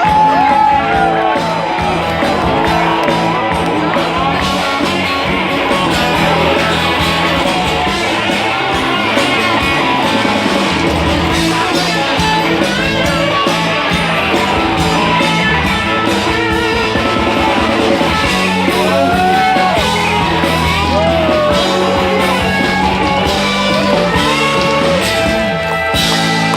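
Live rock band playing an instrumental passage, with guitar to the fore over bass and drums, loud and continuous.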